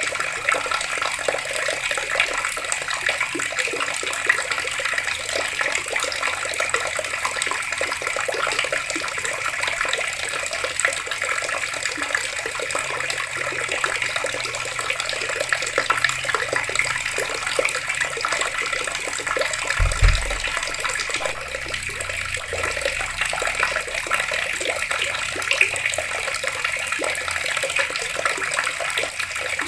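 Water running steadily from taps and splashing down, an even rushing that does not let up. A brief low thump sounds about twenty seconds in.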